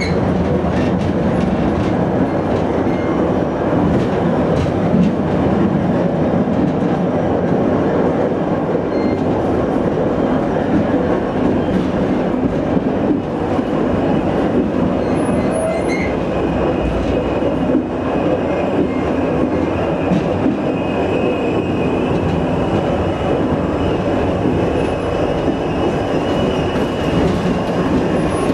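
Train rolling slowly along the track, with steady wheel-on-rail running noise heard from inside the vehicle. A faint high wheel squeal comes in during the second half, as the train takes a curve.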